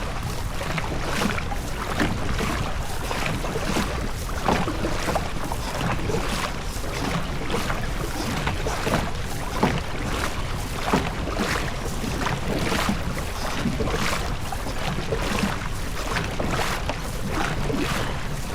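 A crew's blades repeatedly striking and pulling through the water in a steady stroke rhythm, about one to two splashes a second, over wind and water noise.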